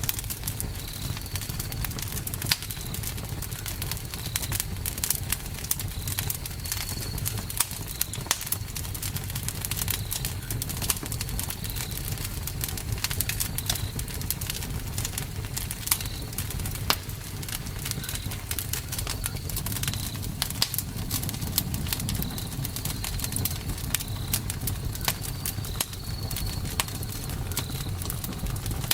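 Campfire burning with a steady low rumble and frequent sharp crackles and pops. Short high chirps repeat about once a second throughout.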